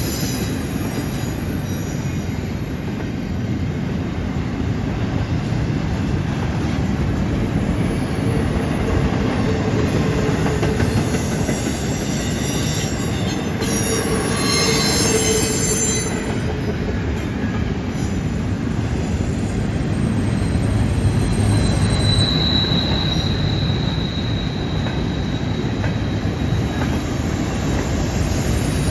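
CN freight train's cars rolling past on a curve: a steady rumble of wheels on rail with brief squeals from the wheels, one high-pitched squeal a little after two-thirds of the way through.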